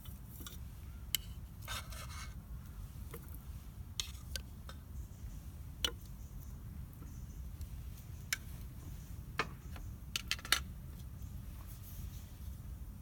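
Wood campfire crackling: scattered sharp pops and snaps at irregular intervals, with a short burst of crackle about two seconds in and a quick cluster of snaps near the end, over a steady low rumble.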